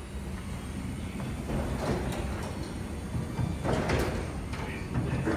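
Insulated steel sectional garage door travelling on its tracks under a Genie 4124H belt-drive opener: a steady low rolling rumble from the nylon rollers, with scattered light rattles and knocks from the sections and hardware.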